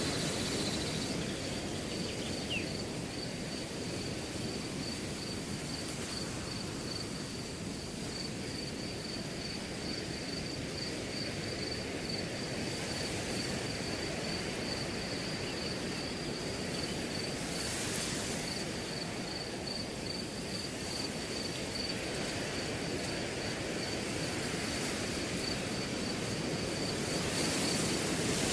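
Wind blowing through a grass field, a steady rush that swells in gusts about two thirds of the way in and near the end, with crickets chirping in an unbroken pulsing trill.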